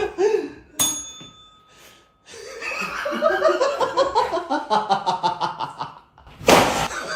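People laughing in quick, rhythmic bursts. About a second in there is a click with a short ringing chime, and near the end a brief loud burst of noise.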